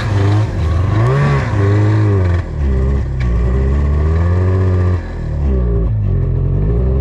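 Snowmobile engine revving up and down several times, running rough: the rider calls it running like garbage, and the cause turns out to be a leaking fuel hose.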